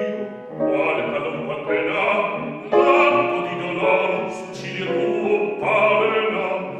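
Operatic singing: a trained voice with vibrato sings several held phrases in rehearsal.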